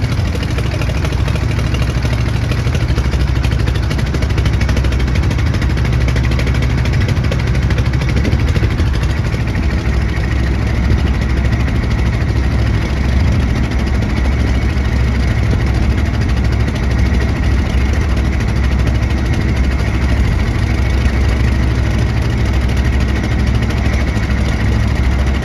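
Boat engine running steadily, a loud low drone that holds even.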